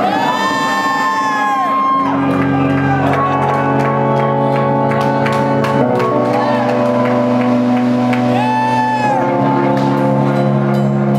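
Live rock band playing: long held high notes that bend in pitch over steady sustained bass and guitar notes, with drum hits.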